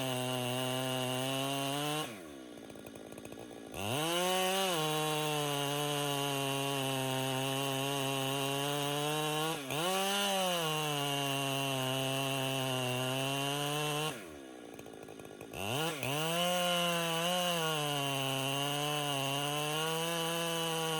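Chainsaw running at high revs under load as it rips a cedar log lengthwise. Twice the engine note drops and goes quieter for about two seconds, then climbs back up to cutting speed, with one shorter dip in between.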